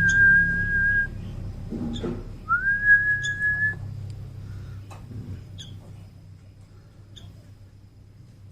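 A person whistling two long, steady notes, each starting with a short upward slide, about a second and a half apart. Short high chirps from a young sooty-headed bulbul come between and after them.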